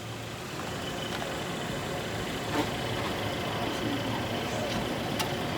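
2019 Hyundai Kona's 2.0-litre four-cylinder engine idling steadily, just after a fresh oil change, with a few faint clicks.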